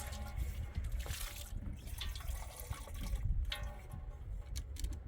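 Water trickling and dripping steadily, with scattered small drips.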